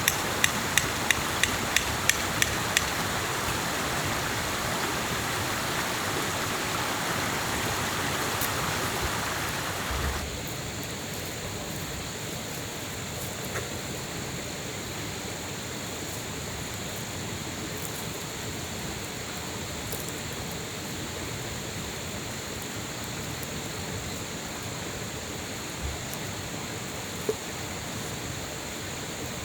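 Steady rush of flowing stream water, with a quick run of sharp ticks, about three a second, in the first few seconds. About a third of the way through the rush drops abruptly to a quieter, duller level.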